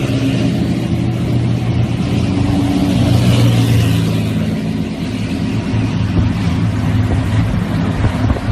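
Helicopter flying low overhead: a loud, steady rotor and engine drone that swells a little midway.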